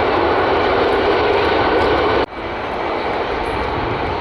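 Jet airliner engines running loud and steady; an abrupt break about two thirds in, after which a similar, slightly quieter engine sound carries on.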